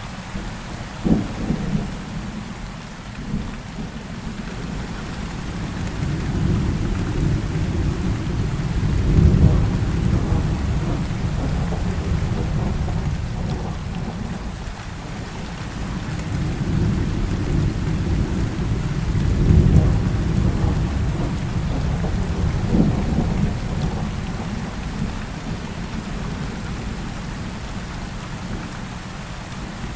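Heavy rain falling steadily in a thunderstorm. A sharp crack of thunder comes about a second in, and long deep rolls of thunder swell and fade twice, peaking around a third and two thirds of the way through.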